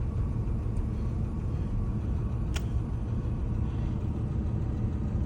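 Porsche 997 911 flat-six engine idling steadily, a couple of minutes after a cold start, with a low, even rumble from the exhaust. A single sharp click about halfway through.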